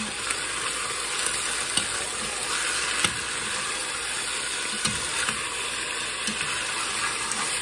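Boneless chicken chunks frying in hot oil in a cast-iron pan: a steady sizzle. A few sharp clicks of a utensil against the pan are heard as the chicken is stirred.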